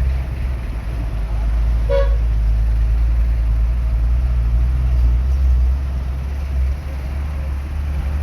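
Vehicle engines idling in stalled traffic, a steady low rumble, with one short horn toot about two seconds in.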